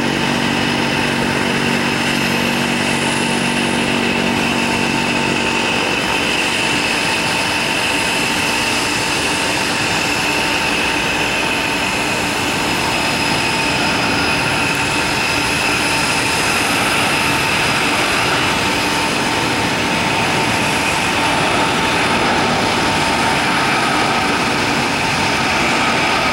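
Boeing 767-300ER's twin jet engines as the airliner comes in to land: steady jet noise with a high whine, and a lower hum that fades out about five seconds in.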